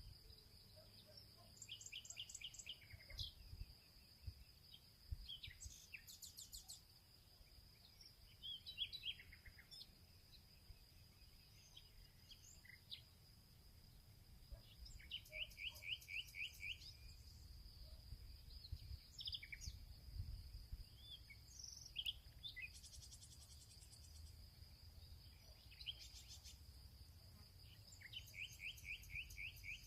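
Faint outdoor field ambience with several songbirds calling and singing. One bird repeats a fast trill of quick notes about a second long, three times: near the start, about halfway and near the end. A steady high insect drone and a low rumble run underneath.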